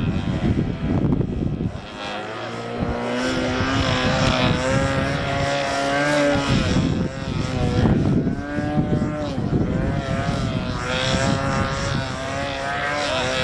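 Radio-controlled model airplane buzzing in flight, its pitch rising and falling as it passes and changes throttle.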